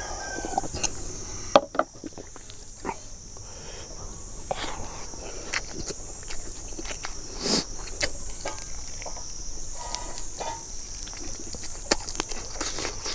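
Close-miked eating sounds: a man chewing with his mouth open and smacking his lips over chicken and rice, with many short, irregular wet clicks. A steady high-pitched hiss runs behind.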